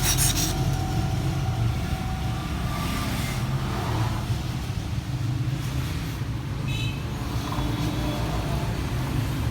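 Steady low rumble of motor vehicles running, like traffic or a car engine close by, with a brief faint higher tone about seven seconds in.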